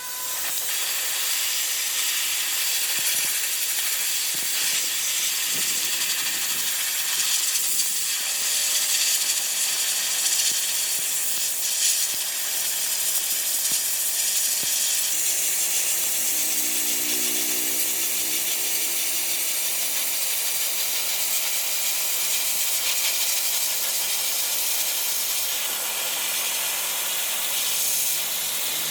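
A steady, loud hiss of rushing air or spray, such as a compressed-air tool gives.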